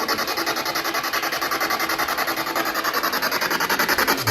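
Spirit box radio scanner sweeping through stations: hissing static chopped into rapid, even pulses, several a second.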